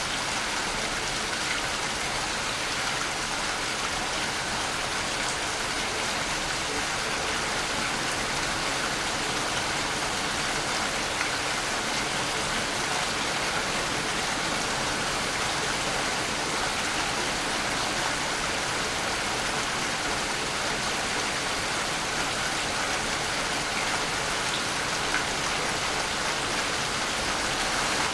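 Waterfall: water falling and splashing in a steady, unbroken rush of white noise.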